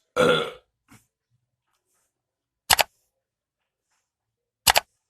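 A short burst of a person's voice, then two sharp double clicks about two seconds apart.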